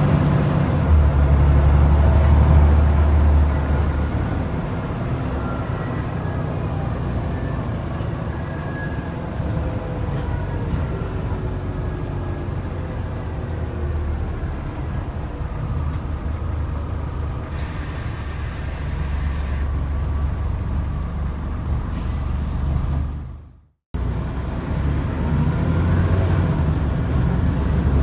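Scania DC09 engine of a Scania N94UD double-decker bus pulling under load, its note rising and falling as it moves through the gears, loudest in the first few seconds. About two-thirds of the way in comes a short hiss of air from the air brakes, and near the end the sound cuts out for a moment before the engine comes back louder.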